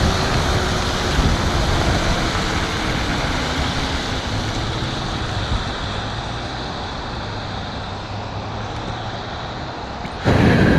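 Wind and wet road noise rushing past an electric scooter rider, with a faint falling whine from the hub motor as the rush slowly eases. Near the end, a sudden loud blast lasting about half a second.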